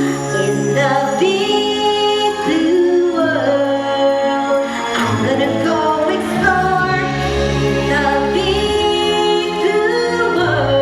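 A musical-theatre song: several voices, led by female voices, singing held notes over an accompaniment with a moving bass line.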